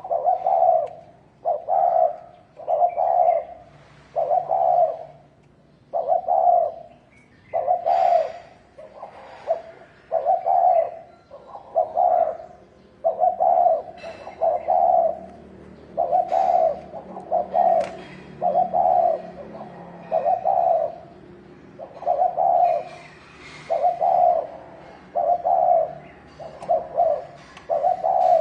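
Spotted doves cooing in the 'thổ đồng' style: low, hollow coo notes repeated about once a second, some in quick pairs, with faint chirps of other birds above. It is the provoking call used to stir up rival males.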